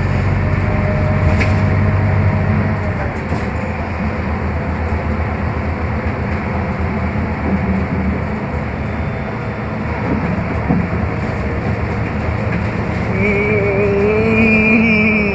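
Scania K320UB hybrid bus heard from inside while moving: a steady hum with road and body rattle. The low drone fades about three seconds in, and a wavering pitched whine rises near the end.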